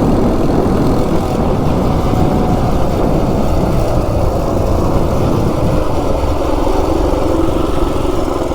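Coleman RSV minibike's ungoverned 196cc single-cylinder engine running hard at speed on a top-speed run, under steady heavy wind noise.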